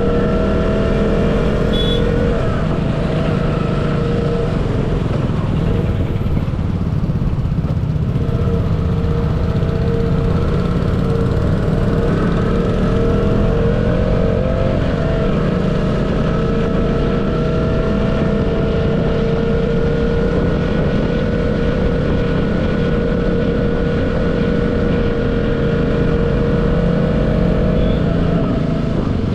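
Motorcycle engine running under way, a steady hum whose pitch shifts slightly a couple of times, over a heavy low rumble of wind and road.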